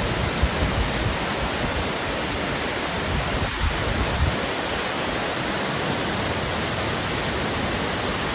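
Waterfall crashing, a steady loud rush of falling water, with low rumbling buffets in the first few seconds like wind or spray on the microphone.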